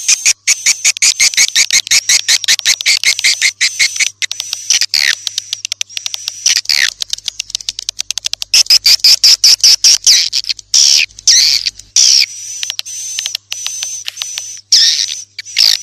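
Swiftlet calls: a rapid, continuous chatter of sharp high clicks and chirps, many per second, over a thin high whistle, with a few downward-sliding notes breaking in.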